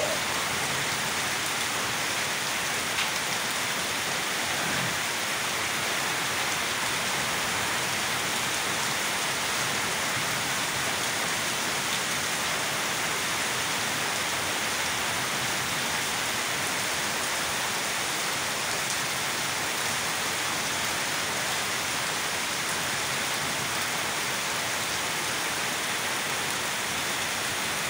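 Heavy rain pouring steadily, a constant even hiss with no let-up.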